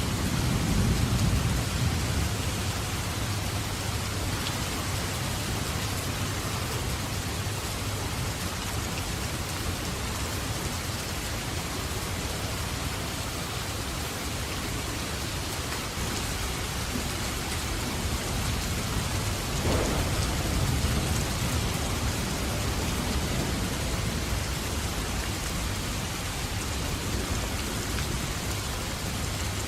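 Steady rain falling in a thunderstorm, with low rolls of thunder rumbling at the start and again about twenty seconds in.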